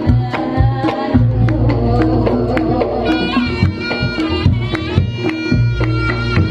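Reog Ponorogo gamelan music: drums beat a quick rhythm over low booming gong-like notes. About three seconds in, a reedy, shawm-like melody line comes in on top.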